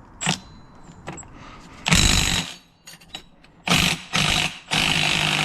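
A power tool run in four short bursts: a loud half-second burst about two seconds in, then three more near the end, the last one longest.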